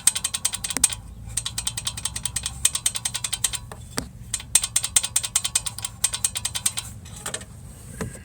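Volkswagen Golf Mk7 1.4 TSI turbocharger wastegate actuator rattling: a rapid run of metallic clicks in several bursts with short pauses, stopping about seven seconds in, over the low hum of the running engine. The rattle is the sign of a worn, loose wastegate actuator linkage.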